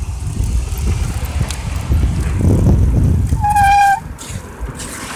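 Wind rumbling on a handheld phone's microphone as a bicycle moves off. About three and a half seconds in, a short, steady high squeal lasts about half a second.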